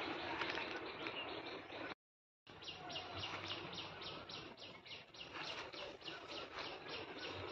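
Bird calling in a fast, even series of short high chirps, about four a second. About two seconds in, the sound cuts out for half a second.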